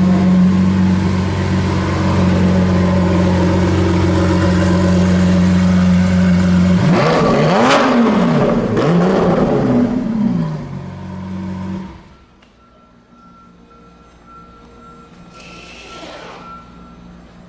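Car engine idling steadily, then revved twice in quick succession, each rev rising and falling in pitch. About twelve seconds in it stops abruptly, leaving a much quieter background.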